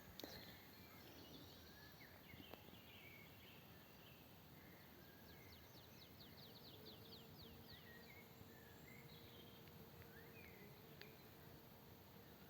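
Faint birdsong: scattered short chirps, and about five seconds in a quick run of rapid, repeated falling notes, over a low hush; a faint steady hum joins about halfway through.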